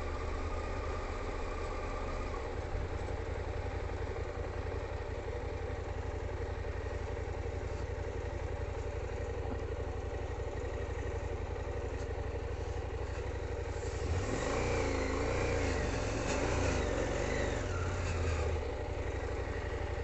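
KTM 890 Adventure's parallel-twin engine running steadily under way. About two-thirds of the way in, the engine note rises and falls several times over a few seconds.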